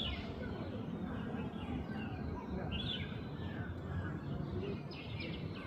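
Jungle babblers calling, a run of short repeated falling notes from several birds over steady low background noise.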